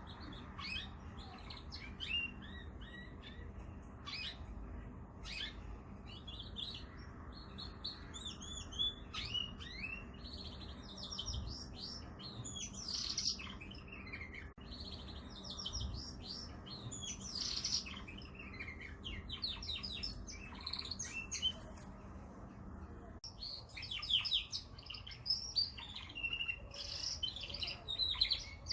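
Domestic canary singing: a long run of rapid trills and quick rising and falling chirps, livelier from about a third of the way in and again near the end.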